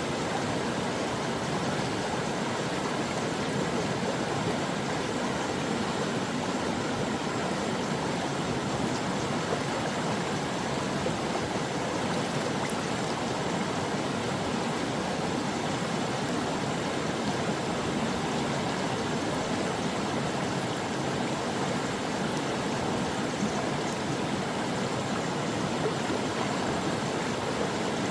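Stream water flowing and splashing over rocks in a steady, unbroken rush.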